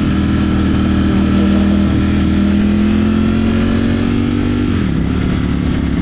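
Ducati motorcycle engine pulling under way, its note rising slowly, then dropping sharply about five seconds in and holding lower, over the rush of riding wind.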